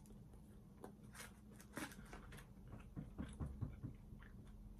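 Quiet chewing of fried tilapia: faint soft clicks scattered throughout, with a short run of low soft thumps about three seconds in.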